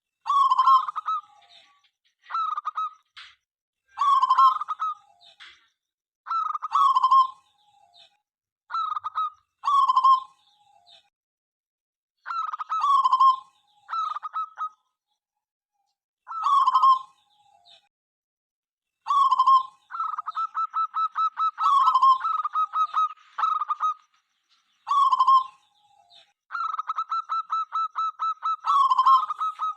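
Zebra dove (perkutut) cooing: short repeated coo phrases a second or two apart, broken by two longer runs of quick staccato coos, about four a second, in the second half.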